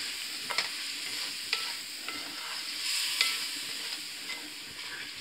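Red kidney beans frying in masala and yogurt in a metal karahi, sizzling steadily, while a wooden spatula stirs them and scrapes the pan with a few sharp strokes, the loudest about half a second and three seconds in. This is the bhunna stage, frying the masala down with the beans.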